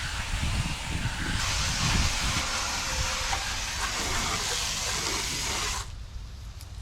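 Water spray hissing steadily as a hose nozzle rinses an air conditioner's outdoor condenser coil, cut off abruptly near the end.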